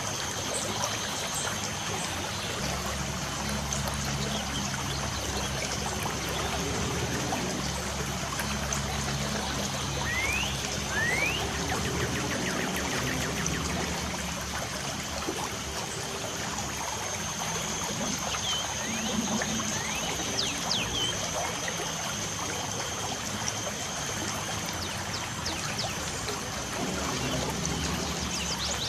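Light rain falling steadily, with a few short, rising bird chirps about ten seconds in and again near twenty seconds, over a steady high-pitched tone.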